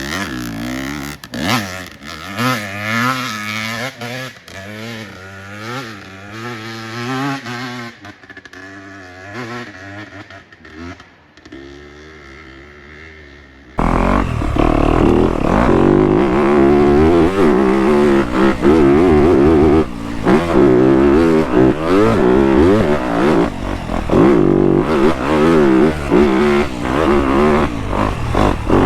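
Dirt bike engine revving up and down, its pitch rising and falling again and again. About halfway through it cuts abruptly to a much louder engine run.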